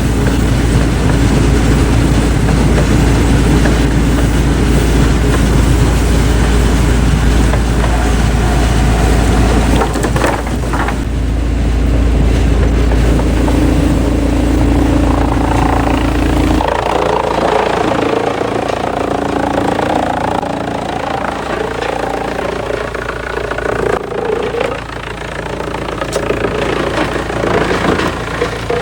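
Heavy machinery engine running steadily with a loud low rumble. About seventeen seconds in the sound changes abruptly to a lighter, higher-pitched machine noise.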